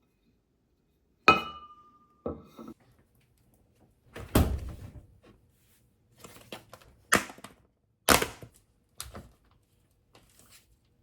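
Objects being handled and set down. About a second in there is a sharp clink with a short ring, followed by a series of dull thuds and knocks spaced about a second apart.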